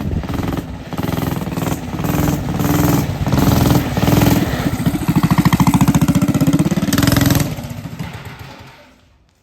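Minibike's small engine revving in a series of throttle surges, then held at high revs. It fades out over the last two seconds.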